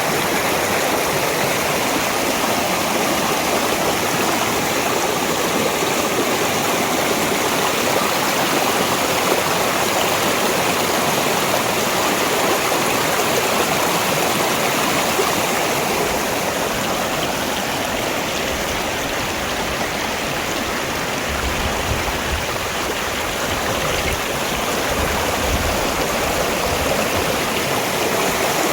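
Mountain valley stream flowing, a steady, full rush of water. A low rumble comes in for a few seconds about three-quarters of the way through.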